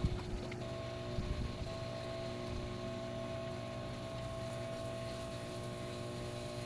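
Microwave oven running with a steady hum, a few clicks right at the start.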